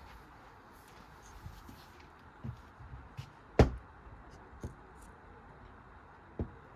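Scattered knocks and clunks from a washing machine being pulled apart, with one sharp, loud knock about halfway through and a few softer ones around it.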